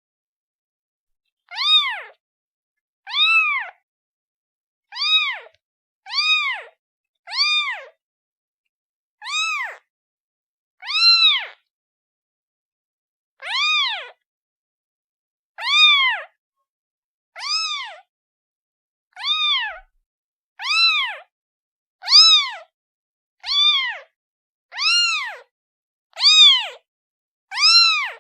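Kitten meowing over and over, high-pitched calls that each rise and then fall in pitch, about one every second or two: a kitten calling for its mother.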